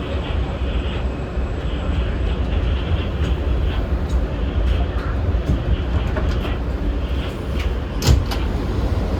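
New York City subway train running, heard from inside the car: a steady low rumble of the wheels on the rails, with scattered clicks and one louder sharp clack about eight seconds in.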